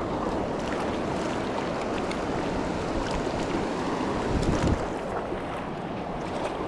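Small mountain creek water rushing steadily over rocks, with a brief low rumble about four and a half seconds in.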